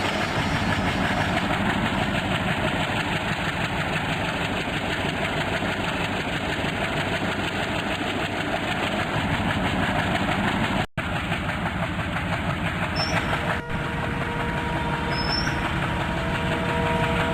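Train running: steady noise of a train with its diesel locomotive. There is a very brief dropout about eleven seconds in, and faint steady horn-like tones begin near the end.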